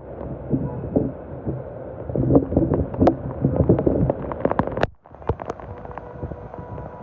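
Stormy wind buffeting the microphone as a rough rumble, with many sharp taps and clicks scattered through it and a brief sudden dropout about five seconds in.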